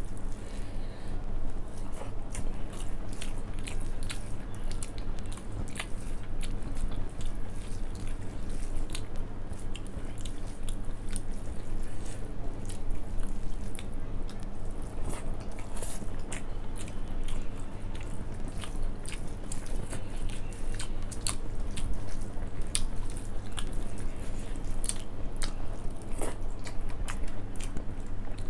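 Close-miked eating: wet chewing of rice, dal and soya chunk curry, with many small sharp clicks throughout, and fingers mixing rice on a steel plate, over a steady low hum.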